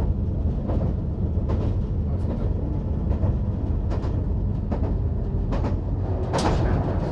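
Diesel multiple-unit train running on the track: a steady low rumble with irregular clicks from the wheels passing over rail joints. About six seconds in, as the train enters a tunnel, a louder rushing burst stands out above the rumble.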